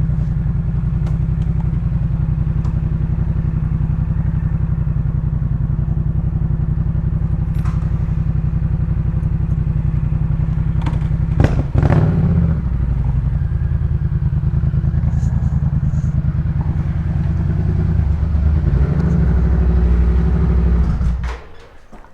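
2018 Yamaha MT-07's parallel-twin engine through a Jeskap K4 full exhaust, idling steadily, with one quick rev about halfway through. The engine sound cuts off suddenly near the end.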